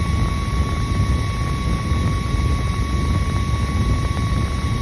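Handheld mini fan running at speed: a steady rush of air with a constant high whine from its small motor.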